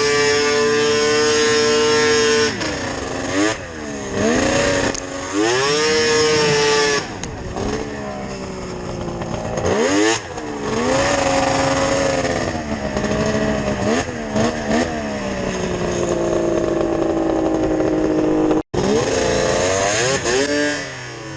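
Yamaha VMax 700 triple two-stroke snowmobile engine with Hauck expansion-chamber pipes, running hard at high revs. After a couple of seconds the revs swing up and down several times with the throttle, then settle to a steadier pitch that slowly falls. The sound drops out for an instant near the end.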